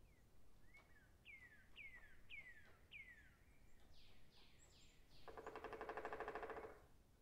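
A forest bird sings a run of five or so whistled notes, each sliding downward, about half a second apart, then a few higher sliding notes. About five seconds in, a fast drumroll of knocks, the loudest sound, rises and fades over about a second and a half.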